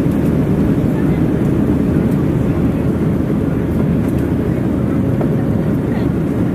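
Boeing 737-700 cabin noise: the CFM56 jet engines and airflow make a steady, loud, low drone, with a faint steady tone above it.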